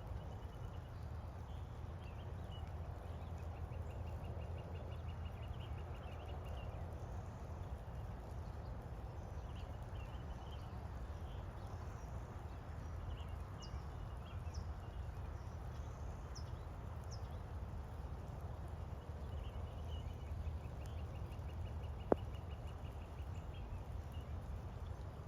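Outdoor rain ambience: a steady low rumble with faint rapid trills high in pitch twice, a few faint high chirps, and one sharp click near the end.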